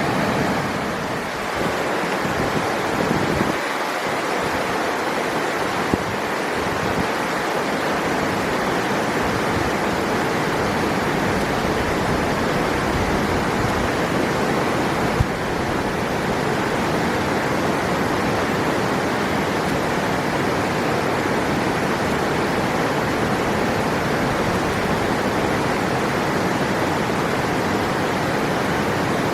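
River water flowing: a steady, even rushing noise that does not change.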